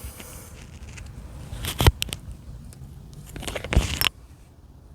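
Handling noises: a few sharp knocks and clicks, about two seconds in and again near four seconds, as the loose door panel is fetched and set down.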